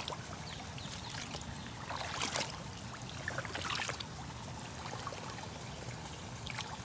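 Shallow creek water trickling, with the splashes of a person wading through it, a little louder about two seconds in and again near four seconds.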